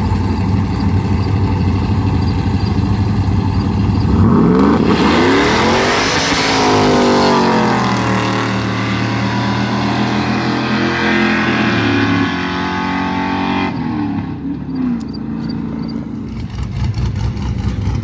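Car engine idling, then revving up hard about four seconds in and held high for around ten seconds with tyres spinning in a burnout, before dropping back to idle near the end.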